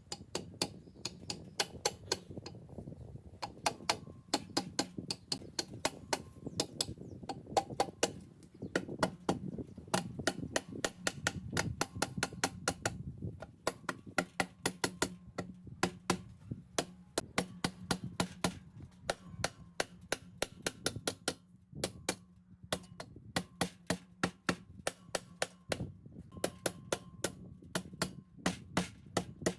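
Repeated sharp taps, a few a second in irregular runs with short pauses, over a steady low hum.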